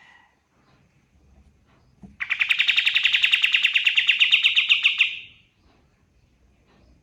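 Kapas tembak bulbul singing one rapid trill of quickly repeated notes, about nine a second, that starts about two seconds in and lasts about three seconds.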